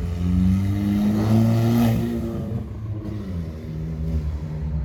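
A car engine running loud, its pitch climbing over the first two seconds, then falling away and settling lower.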